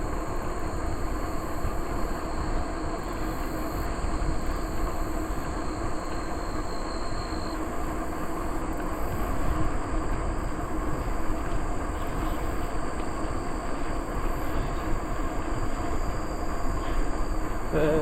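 Bicycle rolling at a steady pace on a paved trail: steady tyre and drivetrain noise with wind rushing over the microphone. A thin, high, steady insect drone fades out about seven seconds in.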